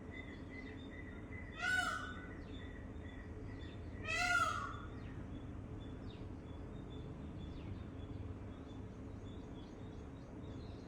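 Bird calls: two loud, harsh calls about two and a half seconds apart, over faint scattered high chirps and a steady low background hum.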